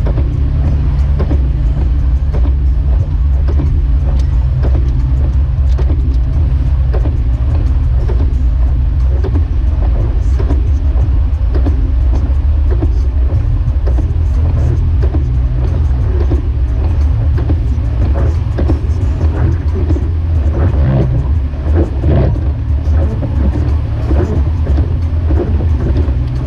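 Jeep Wrangler YJ driving, a steady low engine and road drone with many small knocks and rattles throughout.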